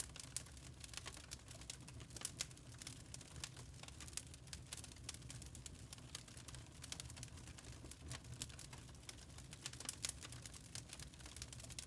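Burning charcoal crackling: a steady scatter of small, irregular pops and ticks over a low rumble.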